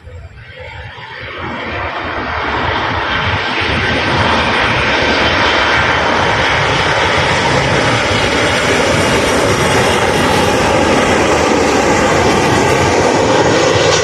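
Airliner engines passing close, building over the first two to three seconds and then holding loud and steady.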